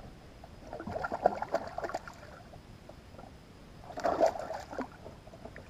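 Water splashing and trickling beside a small boat as a bass is brought up out of the water, in two irregular flurries, one about a second in and another near four seconds in.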